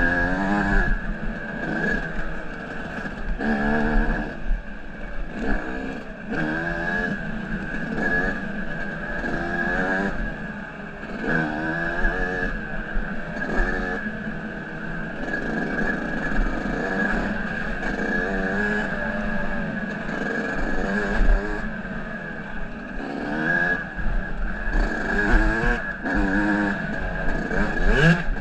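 Dirt bike engine being ridden on a trail, revving up and dropping back over and over as the throttle is worked, on its first ride after the engine seized.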